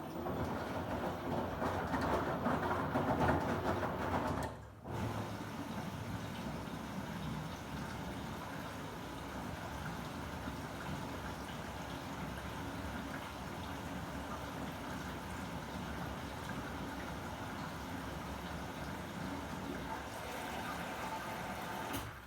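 Samsung WW90J5475FX/AH front-loading washing machine in its rinse phase, with water moving in the drum. It starts abruptly, is loudest for the first few seconds, breaks off briefly about four and a half seconds in, then runs on evenly until it drops near the end.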